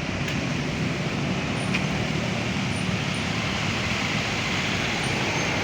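Steady rain falling on a city street, with the low hum of traffic engines underneath.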